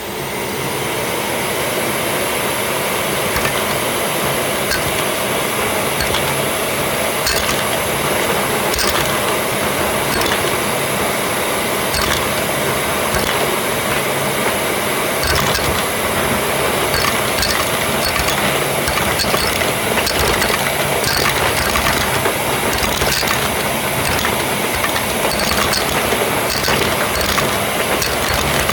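Continuous dense clicking and clattering: many small hard clicks at an uneven rate over a steady hiss. It is the clicking sound made when pumping.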